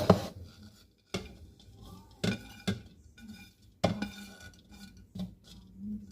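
Kitchen dishes and utensils being handled: a sharp knock, then several separate clinks and knocks of metal and glassware.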